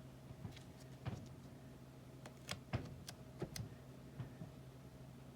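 Scattered light taps and clicks of stamping supplies being handled on a craft desk, about ten in all, bunched between two and four seconds in, over a low steady hum.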